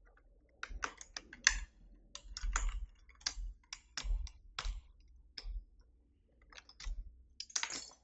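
Keychron V6 Max mechanical keyboard clicking: irregular sharp clacks of keys and keycaps being pressed and handled, a few a second with short pauses.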